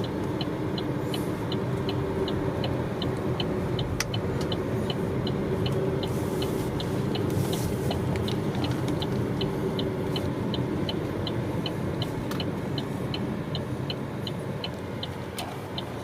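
Car cabin road noise while driving: a steady rumble from engine and tyres, with a regular high ticking, about two to three ticks a second, throughout.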